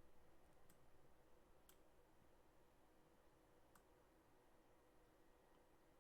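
Near silence: room tone with three faint computer mouse clicks, spaced about a second and two seconds apart.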